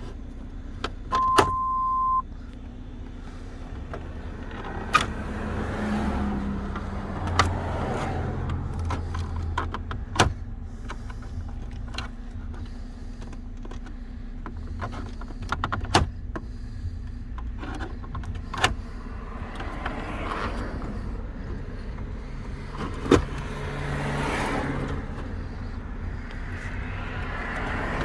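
Plastic dashboard trim being pried off a car's interior with a trim tool: scattered sharp clicks and snaps as the retaining clips let go, with plastic rubbing and scraping in between. A single steady beep sounds for about a second near the start.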